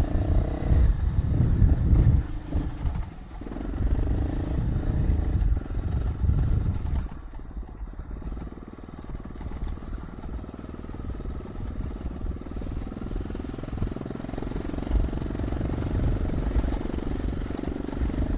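Dual-sport motorcycle engine running as the bike is ridden, louder and rougher for about the first seven seconds, then steadier and quieter.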